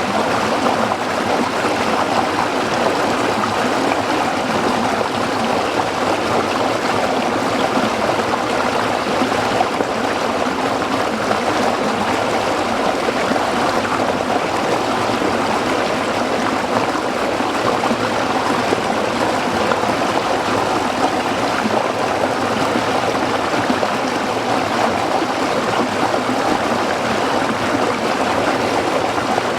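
A small stream running over rocks: a steady, continuous splashing and babbling of water.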